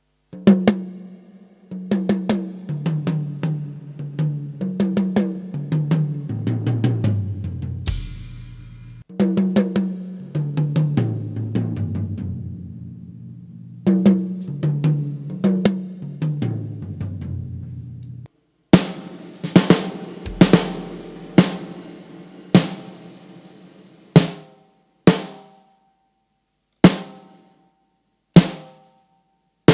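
Drums being tried out: runs of struck, tom-like hits stepping down in pitch, played three times, then a string of single sharp hits with ringing tails, spaced further apart toward the end.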